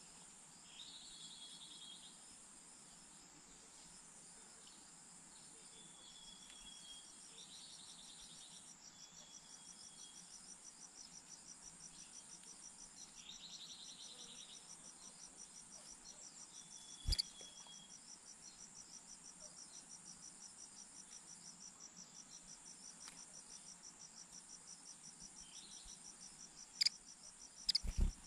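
Insects chirring: a steady high-pitched drone with a fast, even pulsing trill, joined a few times by short buzzy trills. A few sharp clicks stand out, the loudest about two-thirds of the way through and near the end.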